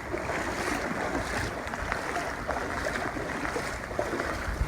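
Rain and gusting wind, with wind rumbling on the phone's microphone and a scatter of small ticks over a steady hiss.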